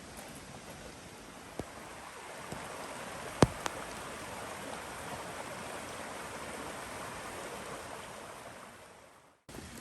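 Steady rain falling, an even hiss, with a few sharp ticks, the loudest about a third of the way in. It fades out near the end.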